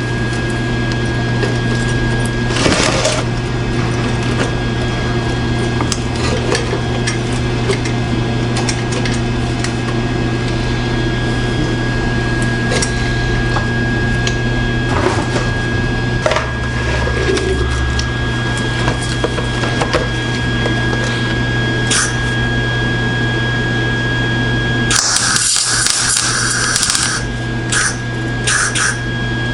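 A steady low hum with scattered clicks and clatter of handling, then near the end about two seconds of crackling MIG welding as a tack weld goes onto the stainless steel downpipe.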